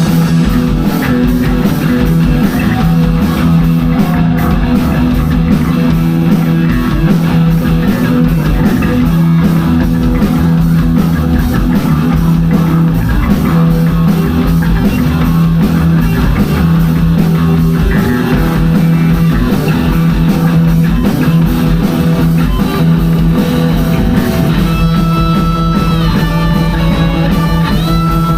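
Live rock band playing, with electric guitar and drum kit. A higher melody line of held notes comes in near the end.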